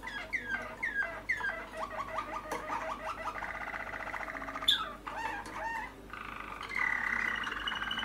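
Young Malinois (Waterslager) canary singing: a run of falling whistled notes, then fast rolls and trills, with a sharp high note near the middle.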